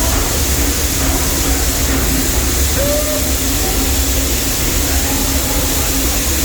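Steady rumble of a narrow-gauge steam train running along its track, heard from aboard a passenger car, with a low hum underneath.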